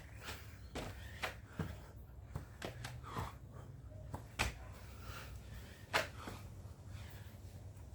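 A person breathing hard in short, forceful puffs and gasps while working out, at irregular intervals, the loudest about four and a half and six seconds in.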